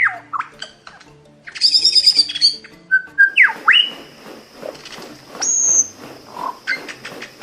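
Bird calls: loud swooping whistled notes, a burst of rapid high chattering about two seconds in, and more whistles and chirps after it, over soft background music.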